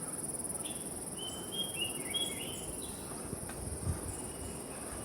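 Steady high-pitched chorus of insects, with a bird singing a short run of whistled notes that step up and down about a second in.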